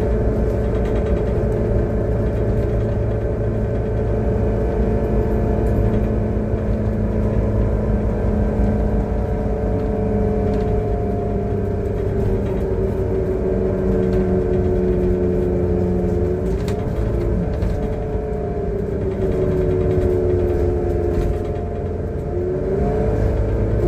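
Transperth city bus TP1422's engine and drivetrain running under way, a steady low drone with a whine that slowly drops in pitch and then rises again twice, about two-thirds of the way through and near the end, as the bus changes speed or gear. The uploader calls it a bad engine sound.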